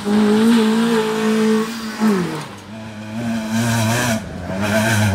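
Autocross car's engine revving hard on a dirt course, held at high revs, dipping about two seconds in as the driver lifts or shifts, then pulling steadily again.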